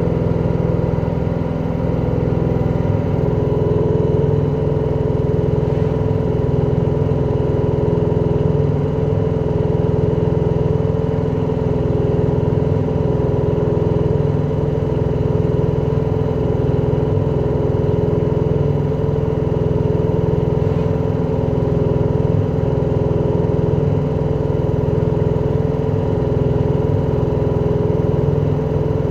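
LG direct-drive washing machine on its spin cycle, running with a loud steady hum and a regular pulsing about once a second. This is the extreme spin noise that marks the machine's fault.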